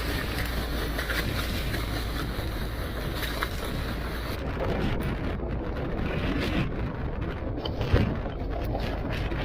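Small fishing boat's engine running steadily under the rush of wind and waves, with a single sharp thump about eight seconds in.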